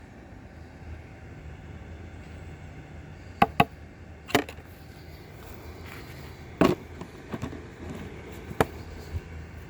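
Handling of a small plastic drip coffee maker: a handful of sharp clicks and knocks, two in quick succession about three and a half seconds in and a louder one past the middle, over a steady low hum.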